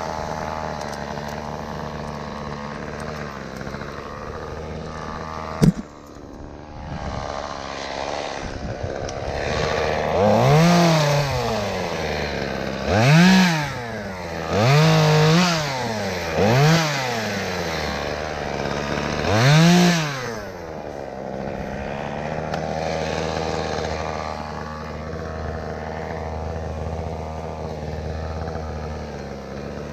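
A two-stroke chainsaw idling, with one sharp knock about six seconds in. It is then revved up five times over about ten seconds, each rev climbing high and dropping back, and settles back to a steady run.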